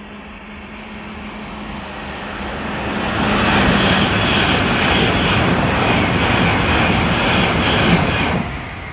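Passenger train approaching and passing at speed: a rush of wheels on rail that builds steadily, with a low steady hum during the approach, stays loud while the coaches go by, and drops off sharply about eight seconds in as the last coach passes.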